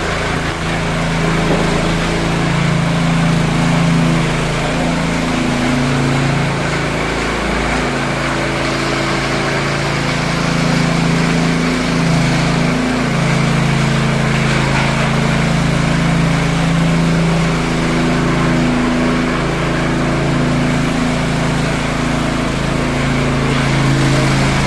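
A motor-driven machine running continuously at a steady, loud level, its hum shifting slightly in pitch every few seconds.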